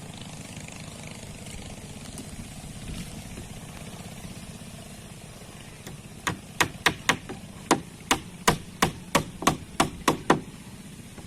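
A quick run of about a dozen hammer blows, roughly three a second, starting about six seconds in, over a steady low hum.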